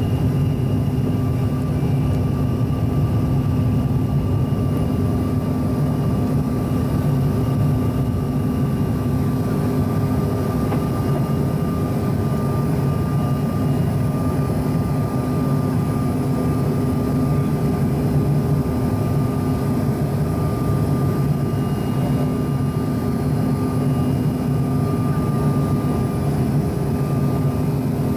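Cabin noise of a Bombardier CRJ-900 airliner: its rear-mounted turbofan engines running steadily as a low hum with a thin, steady whine over it.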